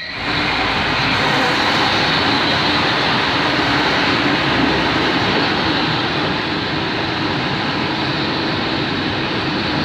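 Freight train of covered hopper wagons rolling past on the near track, a loud, steady noise of wheels on rail.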